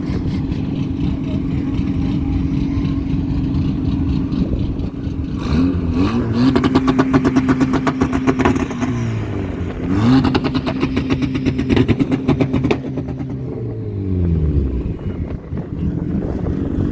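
A car engine idling and revved up three times, each rise in engine speed held for a few seconds before dropping back to idle.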